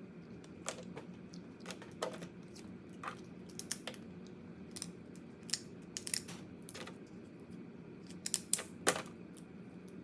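Irregular sharp cracks and clicks of crab shell being bitten and broken apart while eating, about a dozen, the loudest cluster near the end.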